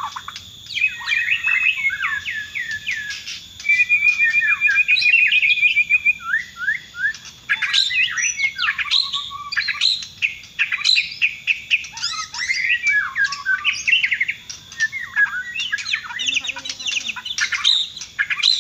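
Bornean white-rumped shama (murai batu) singing a long, varied song of rapid whistled phrases in bursts with short pauses, including a fast trill of repeated notes about four seconds in.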